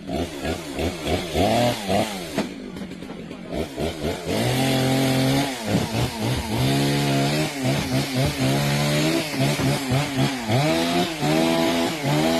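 Chainsaw running and cutting, its engine pitch repeatedly dropping under load and rising again as the throttle is worked, louder and fuller from about four seconds in.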